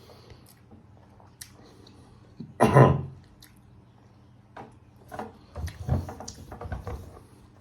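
A person chewing a piece of hot and spicy beef jerky, with a brief, loud throat-clearing sound just under three seconds in and a run of short chewing clicks later on.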